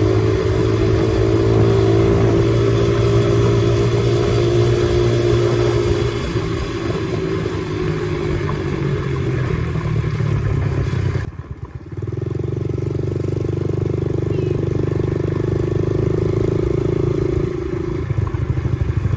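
Dirt bike engine running as it is ridden, with a steady note that shifts after about six seconds. It drops away for a moment about eleven seconds in, then picks up again.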